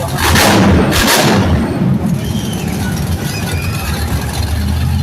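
Monster truck engine running with a steady low rumble, broken in the first second or so by two loud bangs close together.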